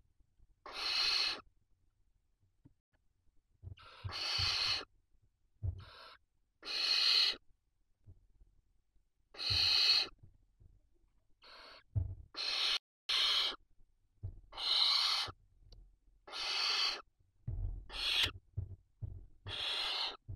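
Barn owl chicks giving rasping, hissing begging calls: about a dozen calls, each under a second, coming every one to two seconds, with low thumps in between.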